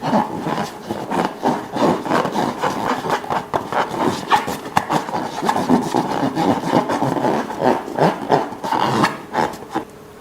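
Slime and balloons being handled by hand: a dense run of rubbing and crackling sounds that starts suddenly.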